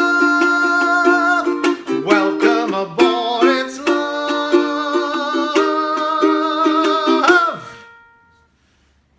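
Ukulele playing the closing bars of a song, strummed and plucked chords with ringing notes, ending on a last chord that fades out about eight seconds in.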